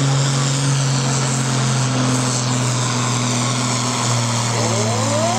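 Pulling tractor's diesel engine running at a steady engine speed, a constant drone that neither revs up nor dies down.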